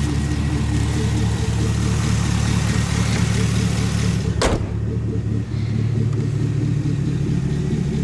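2011 Camaro SS V8 running steadily through a Magnaflow Competition Series exhaust, a deep even exhaust note. A single sharp click-like noise cuts through about halfway, after which the hiss above the exhaust note falls away.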